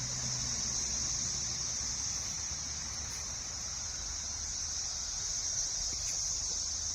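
Chorus of cicadas: one steady, high-pitched buzz that holds without a break.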